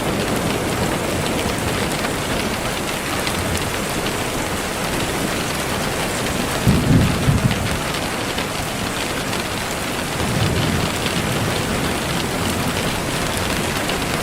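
Steady heavy rain with low rolls of thunder, one about halfway through and a softer one a few seconds later.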